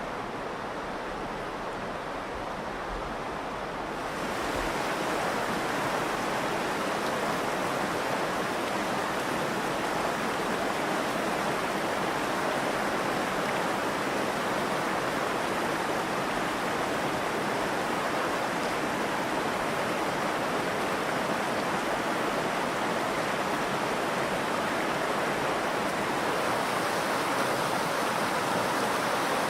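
Steady rush of flowing river water from the Virgin River, growing louder and brighter about four seconds in and then holding steady.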